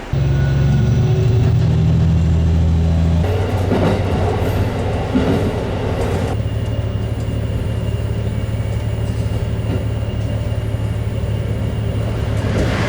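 KiHa 11 diesel railcar running, heard from inside the car: a steady low engine drone with rail and wheel noise. About three seconds in, a higher tone in the drone drops away and the train runs on steadily.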